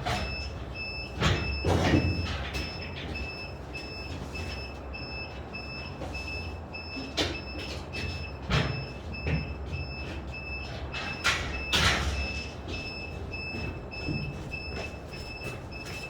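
Construction site ambience while gypsum boards are handled: irregular knocks and thuds from the boards over a low rumble, with a high electronic beep repeating at an even pace throughout.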